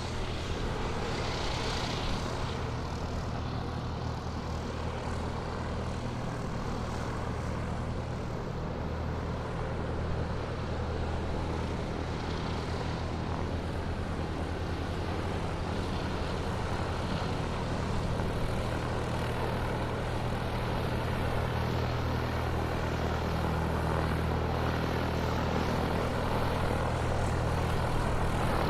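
Aircraft engines running with a steady drone, growing slightly louder toward the end.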